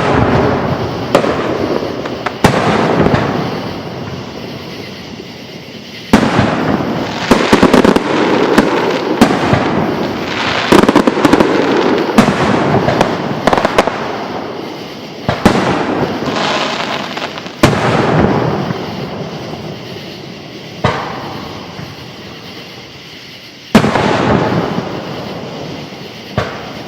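Aerial fireworks bursting, each sharp bang followed by a long rolling echo that dies away. About six seconds in comes a dense run of rapid bursts and crackles lasting several seconds, followed by single bangs spaced a few seconds apart.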